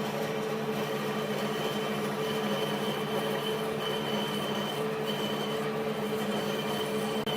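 A motor-driven machine running steadily with a constant hum. A thin high whine above it cuts in and out a few times.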